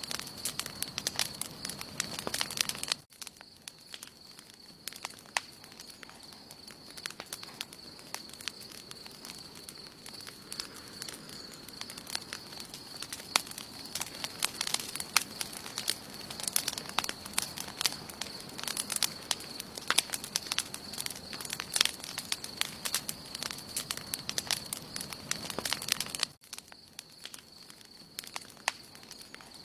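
Wood campfire burning, crackling and popping with frequent sharp snaps over a soft hiss, with a steady high-pitched tone running behind it.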